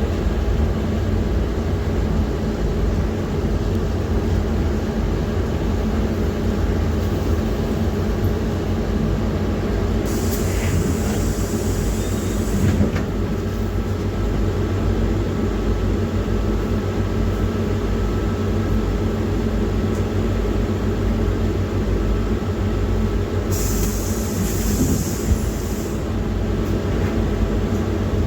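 PAZ-4234-05 bus heard from inside the cabin while under way: a steady engine and road rumble. Twice a hiss of two or three seconds rises over it, about ten seconds in and again near the end.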